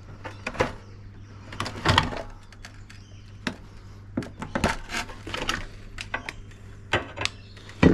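Irregular clicks, knocks and clatter of metal and plastic dishwasher door parts being pulled apart and handled, over a steady low hum.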